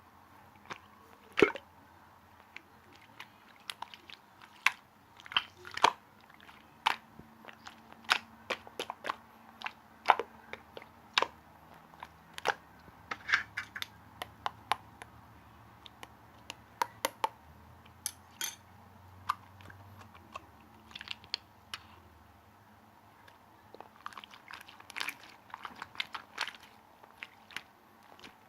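Marbled slime being squeezed and pressed by hand, making irregular sharp clicks and pops, sometimes several in a second.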